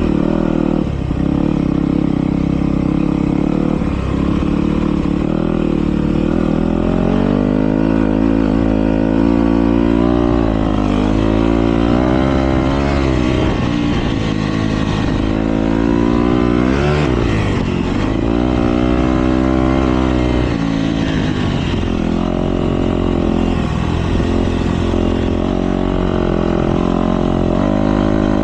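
Motocross bike engines running hard and revving, their pitch rising and falling over and over as the riders work the throttle and shift.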